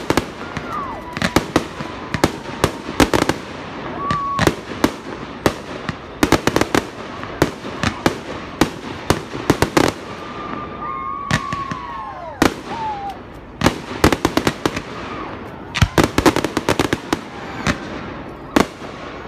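Fireworks display: aerial shells bursting in a rapid, irregular string of loud bangs, often several in quick succession, with a few falling whistles in between.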